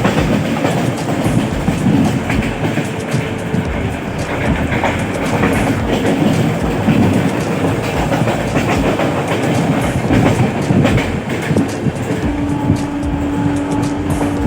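Indian Railways train running on the rails, its wheels clattering steadily over the track. About twelve seconds in, a steady tone sounds for about two seconds.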